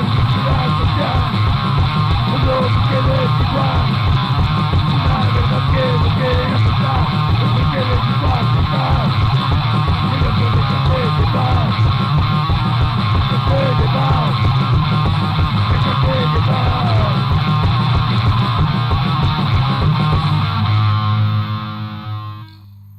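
Loud, fast punk rock: distorted electric guitar and bass over rapid drumming. The band cuts out about 21 seconds in, leaving a quieter held guitar tone.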